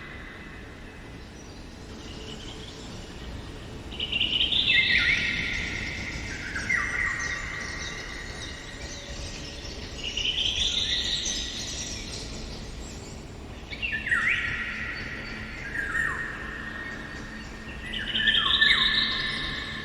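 Songbirds singing in a forest: whistled phrases every few seconds, each stepping down in pitch, over a faint steady background.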